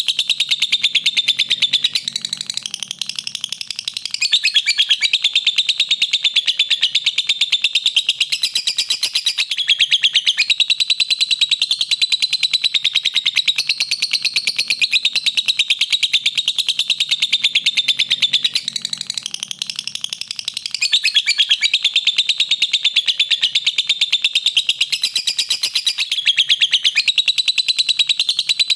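Lovebird singing a long, very rapid chattering trill of high chirps that hardly pauses, dipping quieter for a couple of seconds about two seconds in and again about nineteen seconds in.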